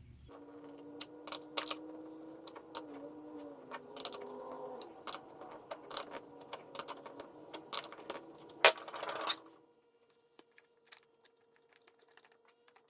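Electric drill running and boring into the wooden chair leg, its pitch dipping now and then under load, with clicks and rattles throughout and one loud clack just before it stops about nine and a half seconds in. Faint hum and light ticks follow.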